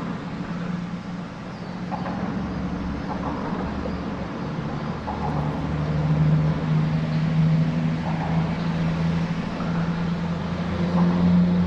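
A motor engine droning steadily. About five seconds in it drops slightly in pitch and grows louder.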